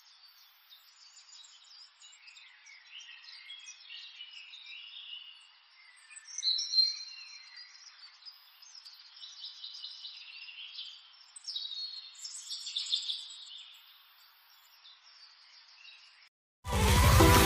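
Birds chirping and calling in short, scattered spells, faint and thin with no low end. Loud music cuts in suddenly near the end.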